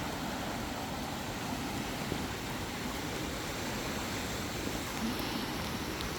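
Swollen, fast-flowing stream in flood, its water rushing in a steady even roar.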